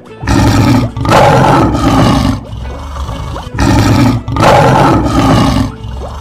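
Lion roar sound effect, played twice; each time a short roar is followed straight away by a longer one.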